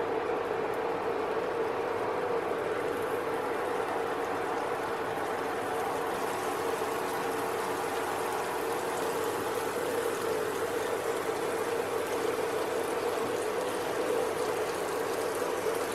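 Cheese slices frying in hot oil in a non-stick frying pan: a steady sizzle that grows stronger after the first couple of seconds, with a steady hum underneath.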